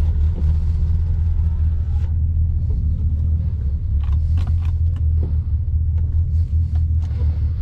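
Nissan 350Z's 3.5 V6 idling through a straight-pipe exhaust: a steady, deep, rumbling drone that holds one pitch, with a few faint clicks over it in the second half.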